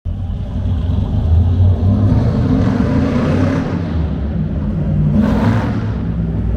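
Custom restomod Chevy drag truck's engine running loud and deep, revved up partway through, with a short sharp blip of the throttle near the end.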